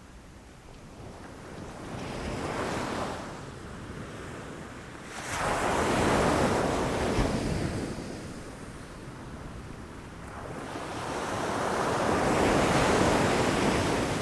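Ocean waves breaking against rocks: a small surge, then a wave crashing in suddenly about five seconds in and washing back, and another building to a crash near the end.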